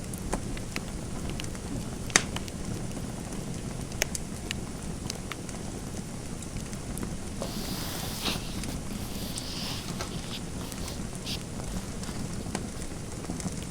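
Fireplace fire crackling: a steady low rumble with scattered sharp pops, the loudest about two seconds in. From about halfway, bursts of scratchy writing on paper.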